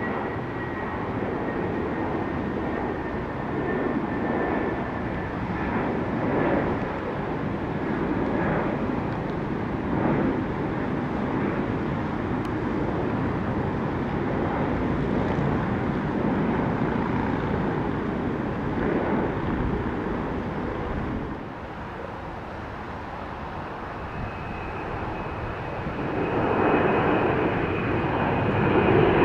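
Jet airliner engines at takeoff power, a dense steady rumble with a faint falling whine at the start. The noise eases off about two-thirds of the way through, then swells again near the end as a steady high engine whine comes in.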